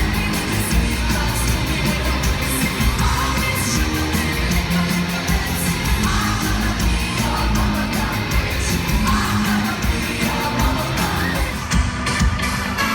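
Loud live pop music from a theatre concert, with a heavy bass beat, singing and a crowd yelling. The treble thins out briefly near the end.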